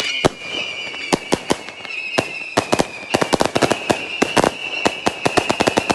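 Firecrackers going off in rapid, irregular sharp cracks: a few scattered bangs at first, then a dense crackling volley from about two and a half seconds in. A steady high whistle sounds behind them throughout.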